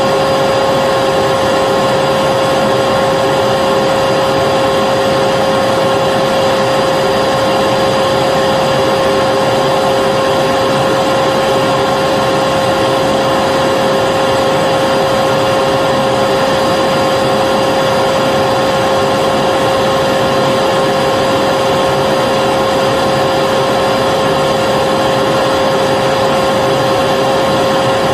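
Vacuum cleaner running steadily: an even rushing of air with a constant motor whine, unchanging throughout.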